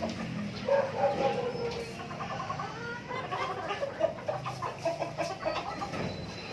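A flock of native chickens clucking at feeding time, with many short calls overlapping one another.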